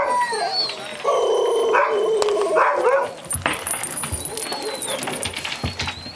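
A dog whining and crying in drawn-out, pitched cries, with a long cry starting about a second in, then fainter high whines.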